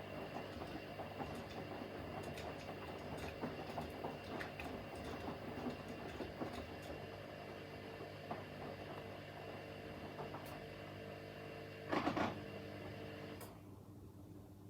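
Front-loading washing machines running a wash cycle: a steady motor hum with laundry tumbling in the drum. A short, louder knock comes near the end, and a moment later the higher part of the sound cuts out, leaving a lower hum.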